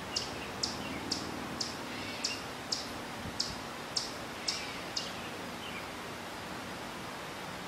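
A bird calling: about ten short, high chirps that each fall in pitch, roughly two a second, stopping about five seconds in. Steady faint outdoor hiss underneath.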